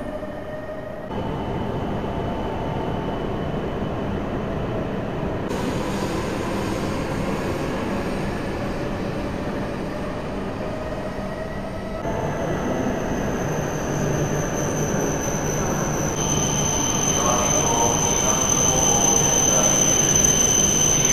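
Shinkansen bullet train moving along a station platform: a continuous rumble of wheels on rail with the electric motors' whine sliding in pitch, rising through the middle. A steady high whine joins in for the last few seconds, and the sound changes abruptly several times.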